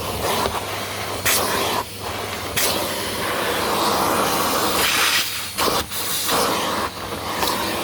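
A vacuum cleaner running, its loud rushing hiss of air swelling and dipping with several brief breaks as it is worked over the floor.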